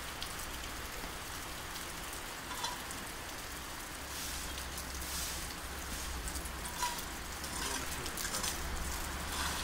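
Steady rain falling on a wet street, with a few louder drips here and there. A low rumble joins about four seconds in.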